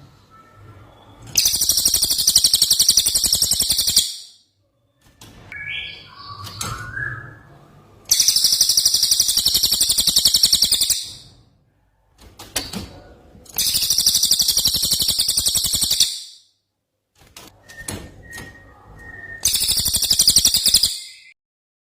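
Green leafbird (cucak ijo) singing: four loud, harsh, very fast high-pitched trills of two to three seconds each, with softer whistled calls between them.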